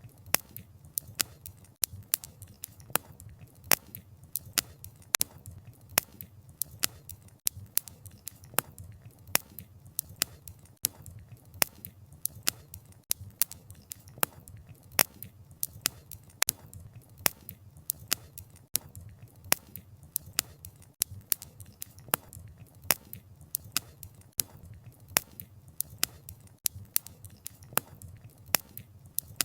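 Wood campfire crackling: irregular sharp pops and snaps of burning wood, several a second, over a low steady rumble of the flames.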